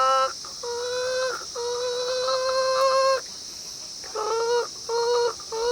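A man imitating a hen's egg-laying cackle with his voice. It comes as a series of drawn-out, even-pitched calls: three long ones, then three short ones near the end, over a steady chirring of crickets.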